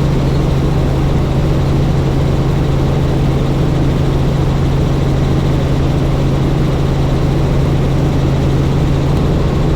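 Robinson R44 helicopter in flight: the steady drone of its piston engine and rotor, heard inside the cabin, with a strong low hum holding one pitch.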